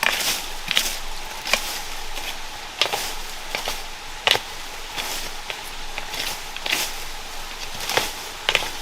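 Irregular sharp clicks and snaps, roughly one or two a second, over a steady hiss.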